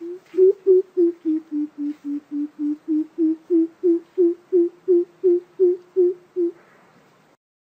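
Coucal calling: a long series of about twenty deep, even hoots, roughly three a second, that dips slightly in pitch in the middle and rises again before stopping near the end.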